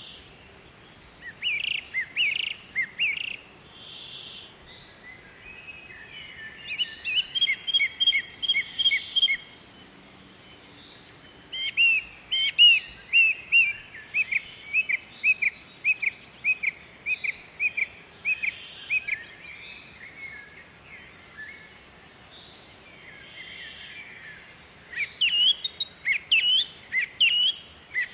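Birdsong: runs of short, repeated high chirps lasting several seconds each, with brief pauses between the runs.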